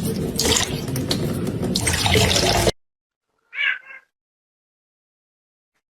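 Water running and splashing, which cuts off abruptly under three seconds in. About a second later a domestic cat gives one short meow.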